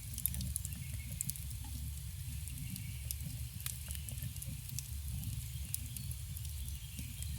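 Campfire burning and crackling: frequent small, sharp pops over a steady low rumble of the flames.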